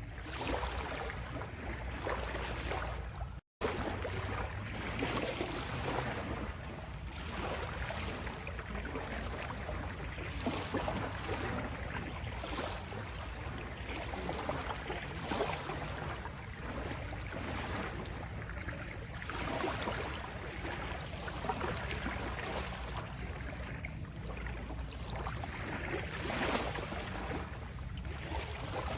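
Small sea waves lapping and rippling at the shore, washing in and out in gentle swells every few seconds. About three and a half seconds in, the sound cuts out for a split second.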